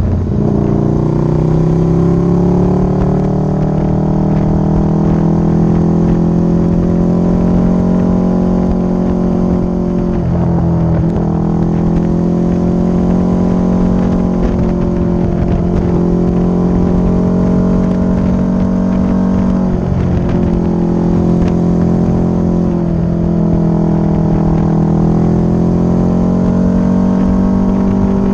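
Motorcycle engine running under way. The revs climb about a second in, then hold steady with several brief dips in pitch where the revs drop and pick straight back up, over a low wind rumble.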